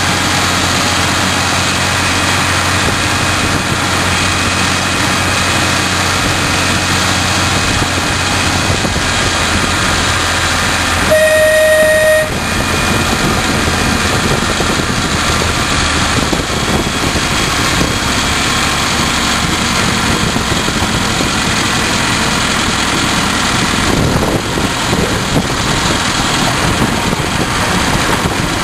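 Miniature railway diesel locomotive running steadily under way, its engine and the wheels on the rails heard from the train just behind. About eleven seconds in it gives one toot on its horn, about a second long and the loudest sound in the stretch.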